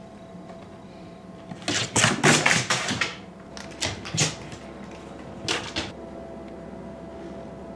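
Rapid light clattering and knocking lasting about a second, starting about two seconds in, followed by two shorter clusters of knocks near the middle.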